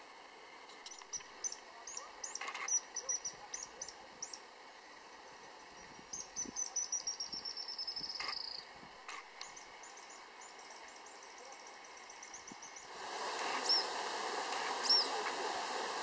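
Wild birds calling: a run of short high chirps, then about six seconds in a quick trill that falls in pitch, then fainter repeated notes. About thirteen seconds in a steady rushing noise sets in, with two more sharp high calls over it.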